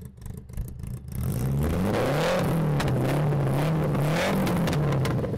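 Marcos sports car engine heard at the exhaust tailpipe, coming in loud about a second in and running at a fast idle. The throttle is blipped twice, the pitch rising and falling back each time.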